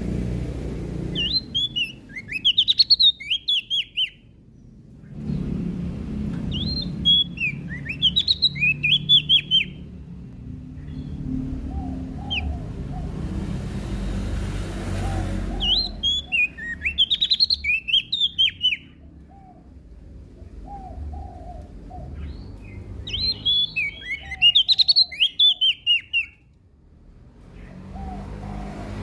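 Prenjak daun (Lombok leaf warbler) singing in four bouts of rapid, high twittering notes, each about three seconds long. Between bouts there are a few softer, lower chirps over a low background rumble.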